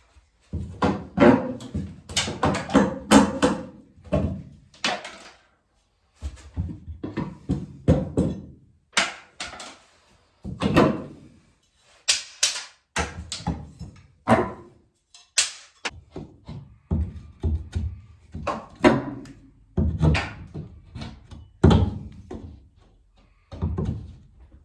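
Irregular series of heavy thumps and knocks, coming in clusters and broken by a few abrupt silences.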